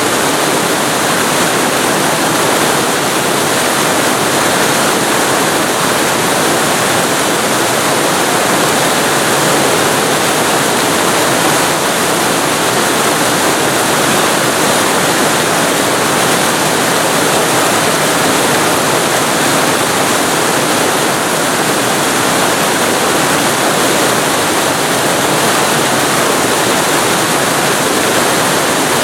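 Waterfall recorded very close to the falling water: a loud, steady rush of water with no breaks or changes.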